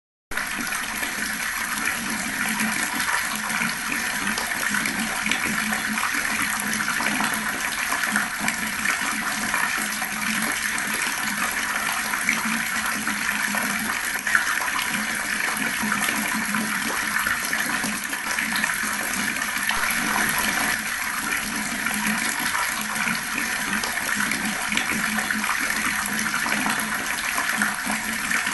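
Water running steadily from a tap, splashing as it falls.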